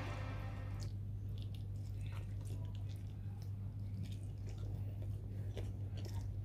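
A person chewing roasted chicken close to the microphone: soft wet smacking and scattered small mouth clicks over a steady low hum.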